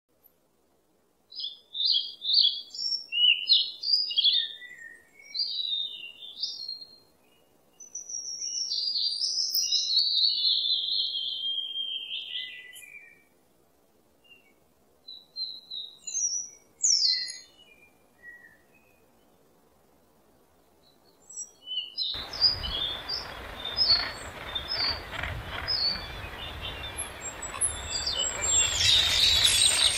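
Birds chirping and singing in bright, gliding phrases with pauses between them. About two-thirds of the way through, a steady rushing background comes in with the repeated calls of a northern gannet colony, growing louder near the end.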